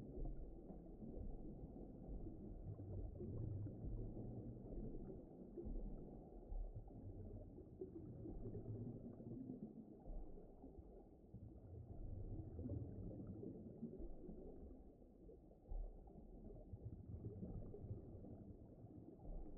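Low, muffled underwater-style rumble: a deep wash of water noise that swells and fades, with no voice over it.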